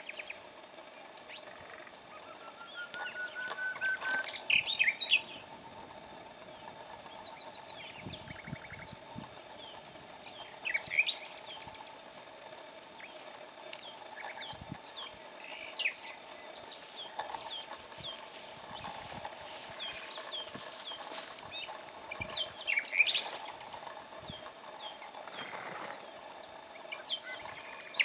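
Several wild birds singing and calling, with scattered short chirps and whistled notes and a rising run of notes about two seconds in.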